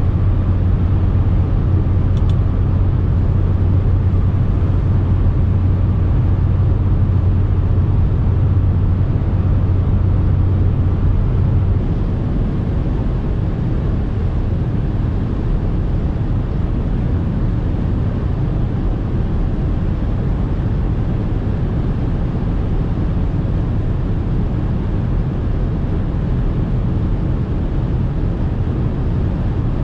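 Audi SQ5 3.0 TDI V6 diesel driving at autobahn speed: a steady low engine drone over an even road and wind rumble. About twelve seconds in, the drone stops and the overall level dips slightly, leaving the road and wind noise.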